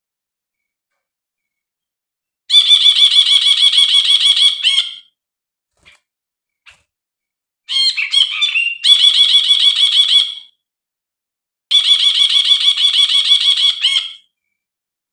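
Brinji (a bulbul) calling in three bursts of fast, repeated notes, each burst about two and a half seconds long, with short pauses between them.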